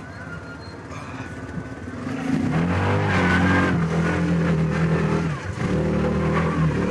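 Yamaha Rhino side-by-side's engine revving up about two seconds in and pulling hard under load, with a brief drop in revs past the middle before it picks up again.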